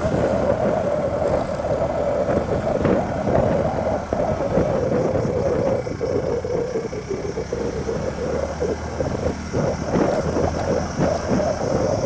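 Motorcycle engine running while being ridden, mixed with wind rushing over the microphone.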